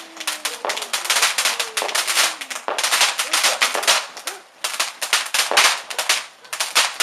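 Fireworks crackling: a rapid, dense run of sharp cracks that thins out briefly about four seconds in, then picks up again.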